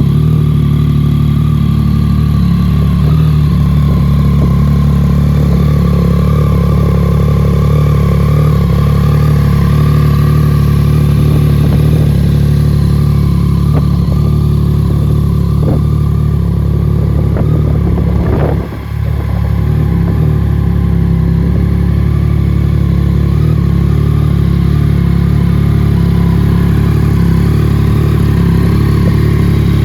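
Yamaha MT-09's 847 cc three-cylinder engine idling steadily through an aftermarket Scorpion exhaust, with one short dip about two-thirds of the way through.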